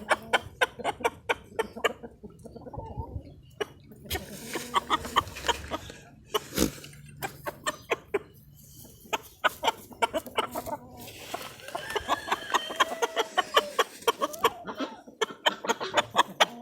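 Chickens clucking softly, with many quick sharp clicks running through and a single louder knock about halfway.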